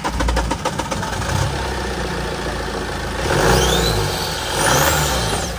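A BMW car engine turning over rapidly at the start, then running and being revved up twice near the end, a high whine rising with each rev.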